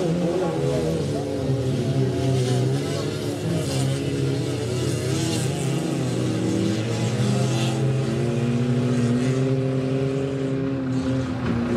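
Several autocross cars' engines revving as they race round a muddy dirt track, their notes rising and falling. Later one engine holds a steadier note.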